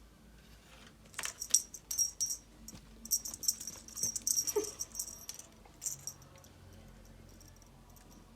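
Light jingling and rattling as the cat plays with its toy, coming in bursts of quick crisp clicks between about one and six seconds in.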